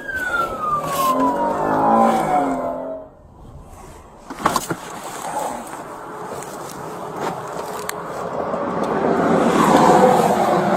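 A police siren's wail falls steadily in pitch over about three seconds and cuts off. Then road noise of highway traffic swells, loudest near the end, with a single sharp click about halfway through.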